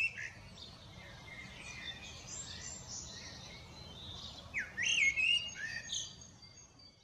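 Small songbirds chirping and singing, with the loudest short rising calls a little past the middle, over a faint low background rumble; it fades out at the end.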